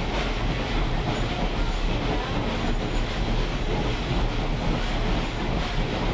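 A railroad caboose rolling along the track: a steady low rumble of wheels on rail, with scattered faint clicks over the rail joints.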